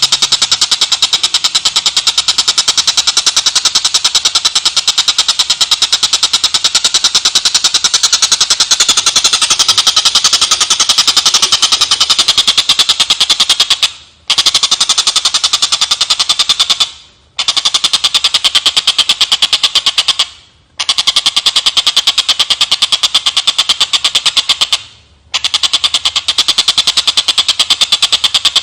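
Tengkek buto kingfisher giving a fast, continuous rattling chatter, a dense run of rapid clicks, broken by four short pauses in the second half.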